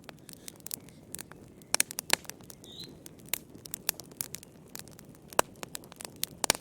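Wood fire burning in a fireplace: frequent sharp crackles and pops of burning firewood over the steady low rush of the flames, with a loud pop about five seconds in.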